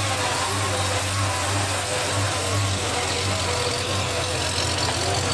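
A car engine idling steadily, with a slight pulse in its low hum.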